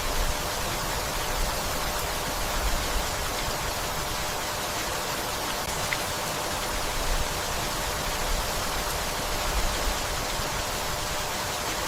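Steady rainfall, an even hiss with a few faint ticks of single drops.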